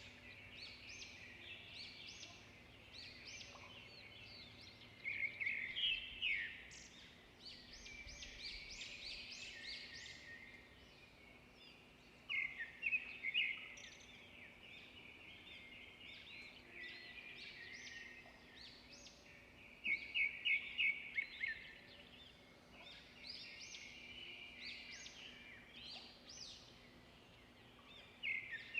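Several songbirds singing and chirping over one another, with a louder burst of quick repeated notes every seven or eight seconds.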